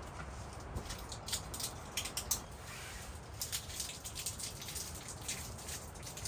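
Rain pattering in scattered, irregular drops over a low, steady rumble.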